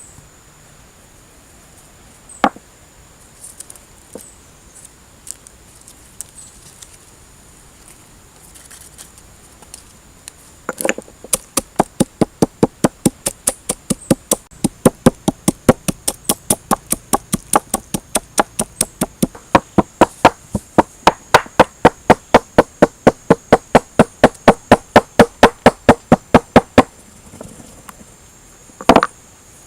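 Rapid, even chopping strokes on a board, about four a second for some sixteen seconds, starting about eleven seconds in. A few single knocks come before them, and one loud knock near the end.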